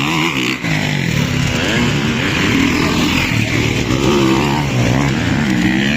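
Several motocross bikes racing, their engines revving up and down over one another as they throttle through the track.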